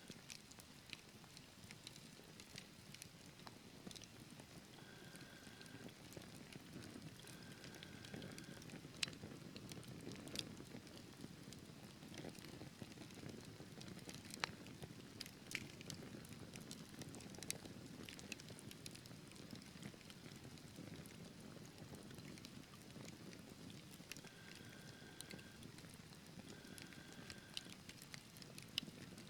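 Wood fire burning in a fireplace: a quiet, steady low rush of flames with scattered sharp crackles and pops. A few brief, faint high tones come and go near the start and again near the end.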